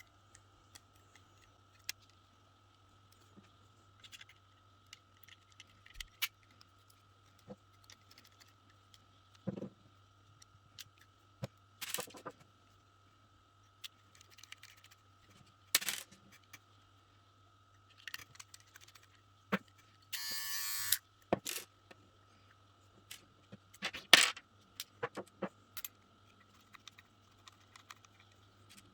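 Small plastic and metal parts of hair clippers clicking, tapping and scraping as they are handled and taken apart, over a low steady hum. A short buzz comes about two-thirds of the way through.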